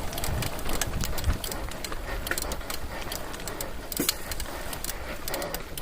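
Irregular light clicks and ticks over a low rumble.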